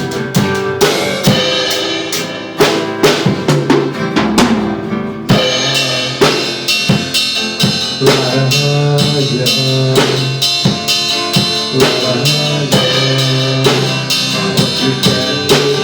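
Instrumental passage of a pop-rock song: a drum kit keeps a steady beat with bass drum and snare hits under sustained bass and guitar chords, with no singing.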